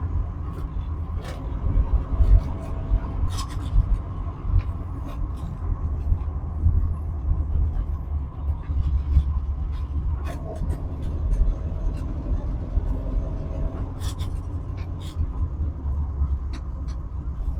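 A 1974 VW Passat with a swapped-in VW GTI four-cylinder engine driving along, a steady low rumble of engine and road with the engine note rising and falling now and then. Scattered short clicks and knocks run through it.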